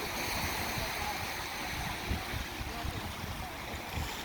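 Lake Michigan waves washing up on the beach: a steady rush of water, with irregular low thumps underneath.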